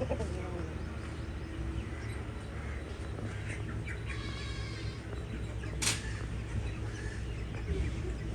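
Young Indian parrot-beak chickens calling and clucking, with a rattling call about four seconds in and a sharp click near six seconds, over a steady low hum.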